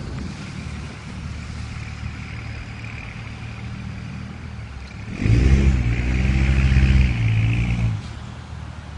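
A motor vehicle driving past on the road: a steady low engine hum that swells and is loudest from about five to eight seconds in, then fades.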